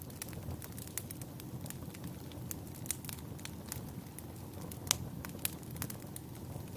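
Wood fire burning in a fireplace: a steady low rumble of the flames with irregular crackles and pops, the sharpest pop about five seconds in.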